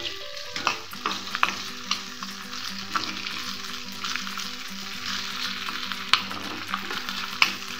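Potato strips sizzling as they fry in a pan, with a steel spatula scraping and clicking against the pan again and again as they are stirred.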